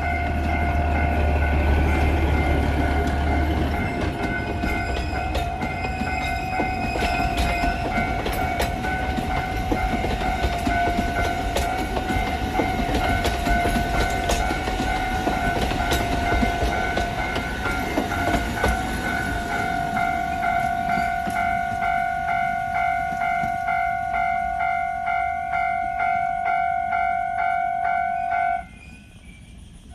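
Alishan Forest Railway train running on the line, with a rhythmic clatter of wheels on rail joints under a long steady high-pitched tone that cuts out suddenly near the end. A deep rumble sits under it for the first few seconds.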